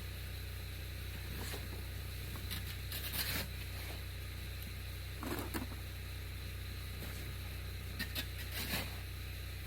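A vehicle engine idling steadily, with a few short scrapes and knocks scattered over it.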